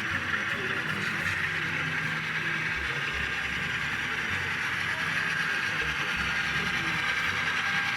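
Steady running noise of HO-scale model trains on a club layout, a continuous hiss and rumble over a low, even engine-like hum.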